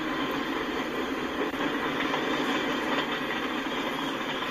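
Freight cars rolling past at speed: a steady noise of steel wheels running on the rails.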